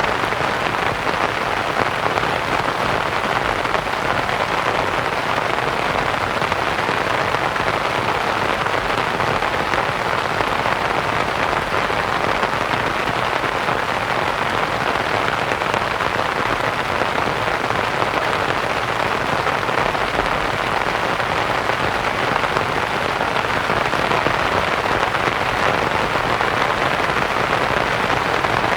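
Steady rain pattering on a canvas tent, mixed with a soft white-noise hiss.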